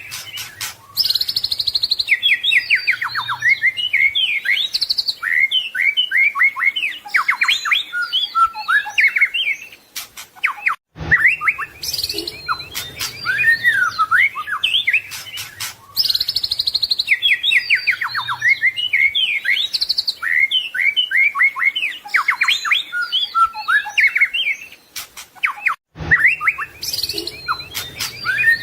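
White-rumped shama (murai batu) singing a rapid, varied song of whistles, slurred notes and trills, rich in 'isian' mimicked phrases. The song breaks off for a moment twice, about 11 and 26 seconds in, and starts again.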